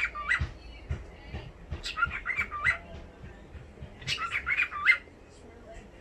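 Cockatiel talking: three short phrases of squeaky, gliding chirps, each about a second long and a second or two apart.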